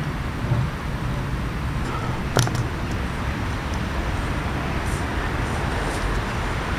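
Steady outdoor background rumble, like traffic or machinery, with one sharp click about two and a half seconds in.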